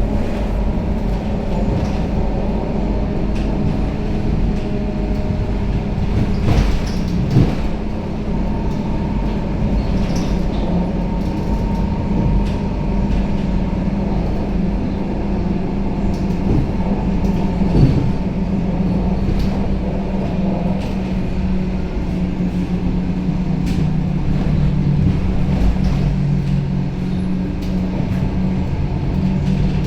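Scania K270UB city bus heard from inside the cabin while it drives: a steady engine note, with a few short knocks and rattles from the body. The engine note drops a little near the end.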